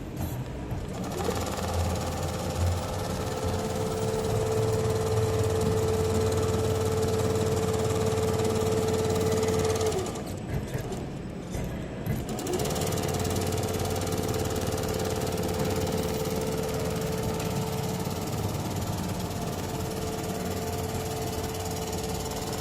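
CNC automatic stitching machine sewing at speed: the needle hammers rapidly over a steady motor whine. It stops for about two seconds halfway through, then starts stitching again.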